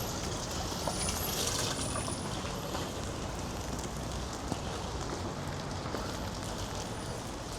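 Steady outdoor street ambience: a constant even hiss of background noise with a few faint clicks.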